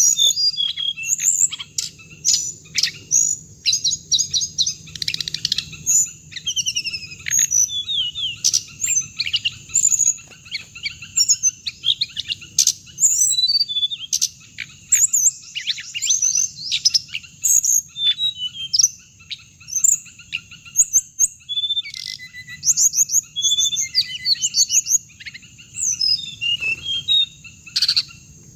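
Small songbirds that Vietnamese bird-keepers call hồng hạnh, calling and singing: a dense, unbroken run of short high chirps and quick trills.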